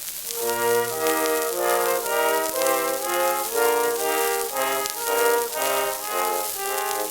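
Early shellac phonograph record playing an instrumental band tune with brass instruments carrying the melody in a run of short held notes. Steady surface hiss and faint crackle from the old disc sit over the music.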